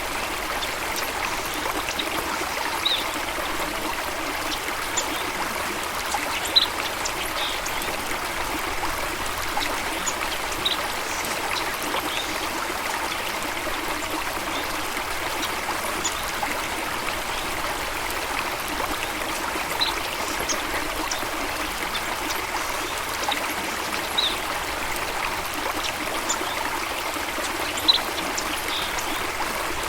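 Steady rush of running water, even and unbroken, with a few brief high-pitched chirps standing out over it, the most prominent about seven seconds in and near the end.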